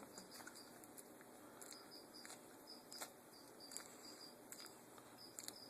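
Near silence with faint, scattered soft clicks of a small pet chewing banana, over faint high chirps repeating in the background.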